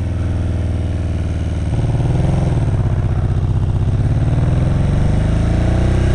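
Kawasaki KZ750 motorcycle engine running on the road, its note changing a little under two seconds in and then rising steadily as the bike pulls.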